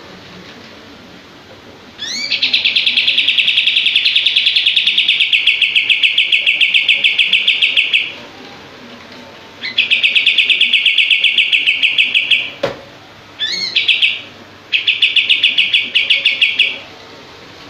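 A kapas tembak songbird singing in fast, rattling trills of rapid, tightly packed notes, each trill opening with a quick rising note. There are four trills, the first about six seconds long and the others shorter.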